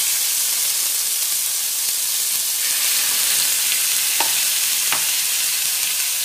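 Skewers of marinated chicken tikka sizzling steadily in hot ghee in a nonstick frying pan, with two light clicks about four and five seconds in.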